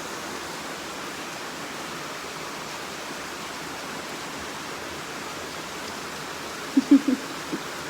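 Heavy monsoon rain pouring down in a steady, even hiss. Near the end a few short voice sounds break in briefly.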